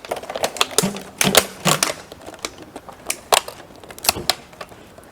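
Plastic being handled and pressed: irregular sharp clicks and crinkles, a few a second, loudest about a second in and again near the end.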